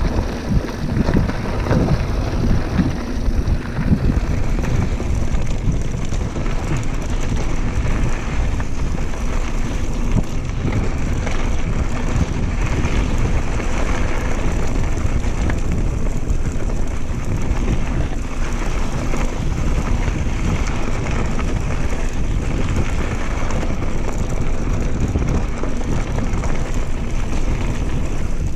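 Steady wind buffeting on a riding camera's microphone, over an uneven low rumble from a mountain bike rolling along a dirt trail.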